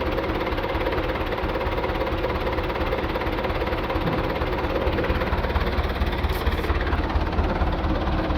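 Tractor diesel engine running steadily, with a deep rumble and a steady drone.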